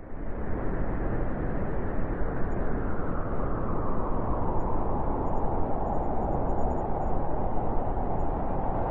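Blizzard wind blowing, a steady rushing noise that comes in just after a brief silence and gradually settles into a louder howl toward the end.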